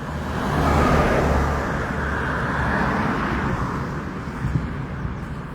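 A car driving past on a nearby road. Its engine and tyre noise swells over the first second, holds, then fades away.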